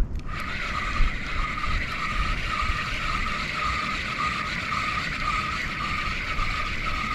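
Fishing reel being cranked to retrieve the lure after a cast: a steady mechanical whir that pulses with each turn of the handle, about two to three times a second, over low wind noise.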